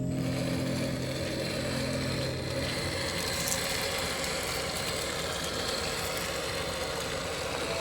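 Scale RC rock crawler's brushed 550 electric motor and geared drivetrain running with a steady whine. Background music fades out about two seconds in.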